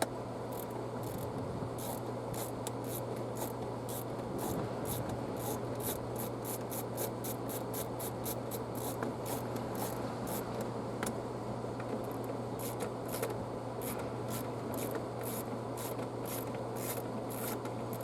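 A T-handle wrench with a 5/16-inch socket turning a rusted screw out of a car's air filter cover: a steady run of short scraping clicks, two or three a second, over a low hum.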